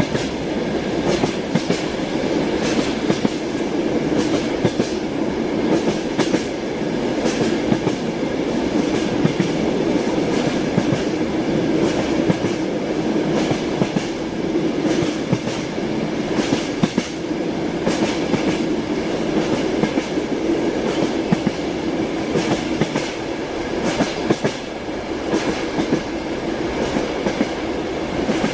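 Passenger train in motion, heard from inside the carriage: a steady rumble with the clickety-clack of the wheels over the rail joints.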